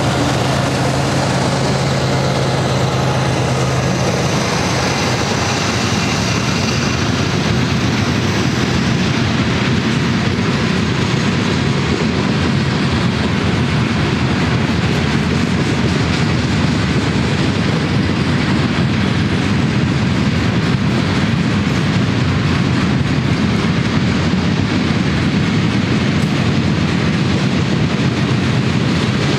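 Freight cars of a long mixed freight train rolling steadily past, wheels rumbling and clacking on the rails. A steady low hum fades out about four seconds in.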